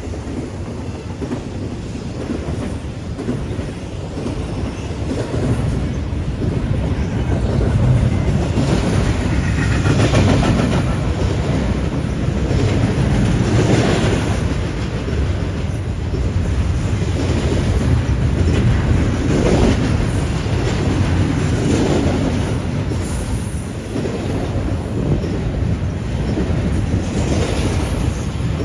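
BNSF intermodal freight train rolling past as it picks up speed from a stop: a steady low rumble of wheels on rail that swells every few seconds.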